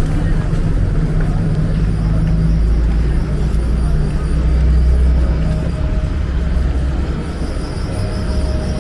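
Street traffic, with a motor vehicle's engine running close by as a steady low rumble that swells about halfway through.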